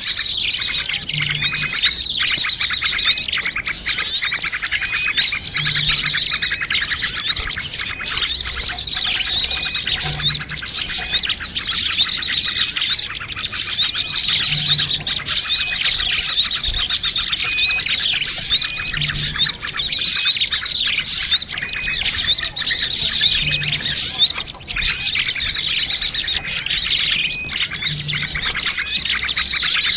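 Dense, unbroken chirping and twittering of many small birds calling over one another, a noisy bird-lure recording of the kind played to draw wild birds in.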